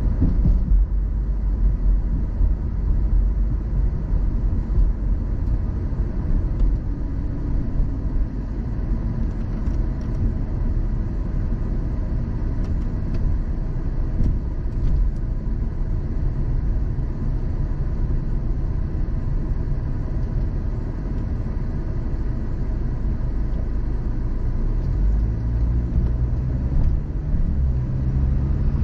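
Car driving along at steady speed: a continuous low rumble of road and engine noise.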